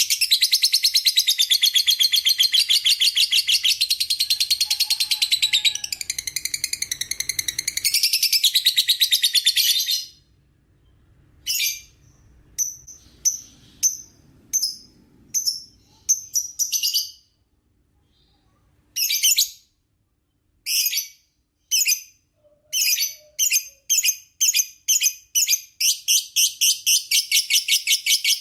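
Lovebird ngekek: a shrill, rapid chattering trill for about the first ten seconds, then short separate bursts of chatter that come closer together and run back into a continuous trill near the end.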